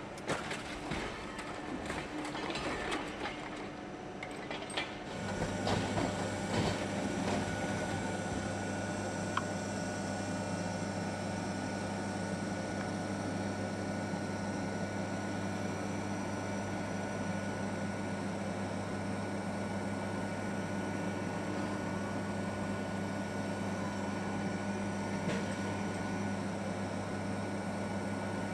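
Scrap-car body crushing machinery: metal clanking and knocking for the first five seconds or so, then a steady low machine hum, with a few more clanks just after it starts.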